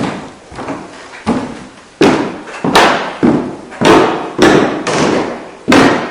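Footsteps on wood, a steady walking pace of heavy, hard steps about every two-thirds of a second, each thud ringing briefly through the boards.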